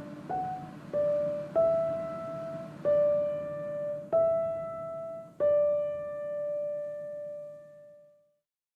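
Background piano music: a slow line of single struck notes, about six in all, the last one ringing out and fading away to silence about eight seconds in.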